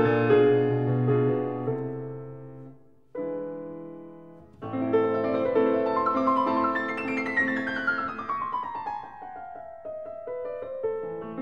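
Background piano music: chords that fade away about three seconds in, then resume, followed by a long descending run of notes.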